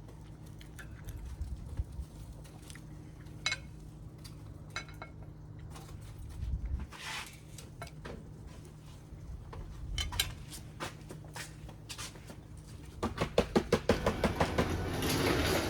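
Plates and cutlery clinking and knocking together in scattered strokes, with a quick run of clatter near the end, over a faint steady low hum.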